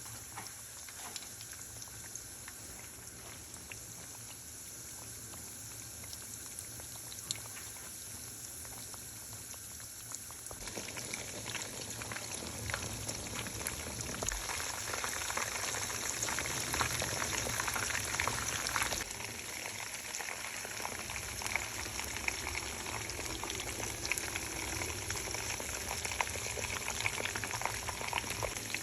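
Breaded chicken cutlets frying in vegetable oil, a steady sizzle with fine crackling that grows louder about a third of the way in.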